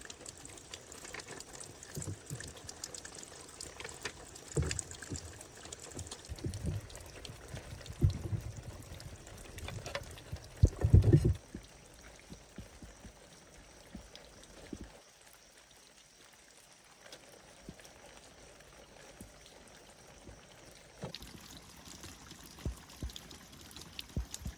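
Water pouring and splashing, with knocks and thumps of handling; the heaviest thumps come about eight and eleven seconds in, and it goes quieter for a few seconds past the middle.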